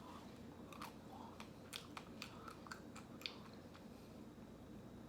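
A person chewing a mouthful of chocolate-coated ice cream bar with crisp chocolate layers, close to the microphone: faint, scattered crunches and wet mouth clicks.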